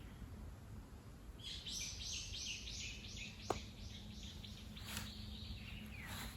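A bird singing: a long run of quick, evenly repeated high notes starting about a second and a half in, sliding lower near the end. A single sharp click sounds in the middle.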